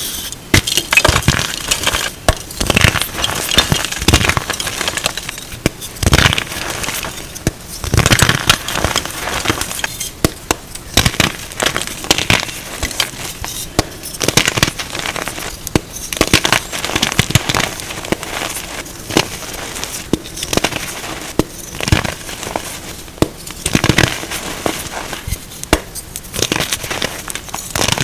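Re-formed gym chalk being crushed and crumbled: a dense, irregular run of crunches and crackles, with frequent louder crunches.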